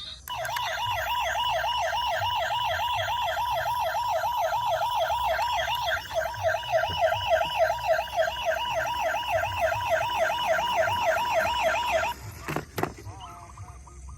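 Electronic siren of a toy emergency vehicle: a fast rising-and-falling yelp of about four sweeps a second that cuts off suddenly about twelve seconds in, followed by two short clicks.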